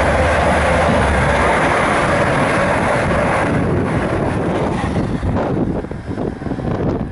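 Stadler FLIRT electric multiple unit passing close at speed: a steady rush of wheels on rails that fades over the second half as the train moves away.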